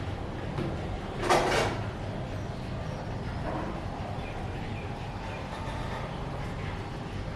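A single harsh squawk from an Alexandrine parakeet, about half a second long and a little over a second in, over a steady low background rumble with a few faint chirps.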